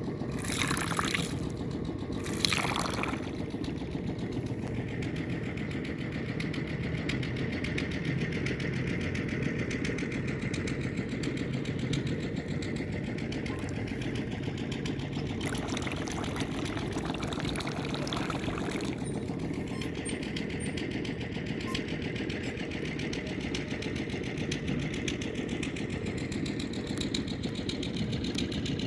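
Small DC motor of a homemade PVC mini boat running steadily: a fast buzz with a high whine over it. Short rushing noises come about a second and two and a half seconds in, and a longer one runs for a few seconds around the middle.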